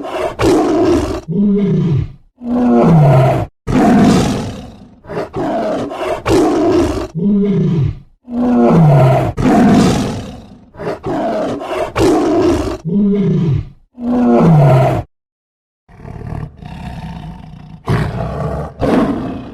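A big cat roaring over and over: loud roars, several sliding down in pitch, in a sequence that repeats about every six seconds. The roars break off abruptly twice, with a short silence of about a second near three-quarters of the way through.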